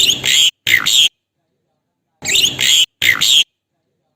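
Asian pied starling (jalak suren) giving loud, harsh calls with sliding notes, in two quick pairs about two seconds apart. The same phrase repeats like a looped lure recording, of the kind played to set other starlings calling.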